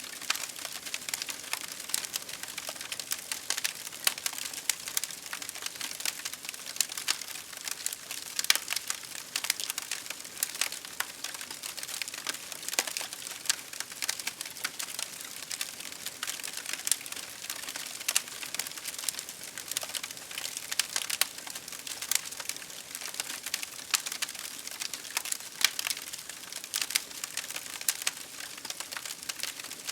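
Wood fire crackling steadily with frequent sharp pops and snaps, over a continuous hiss of rain.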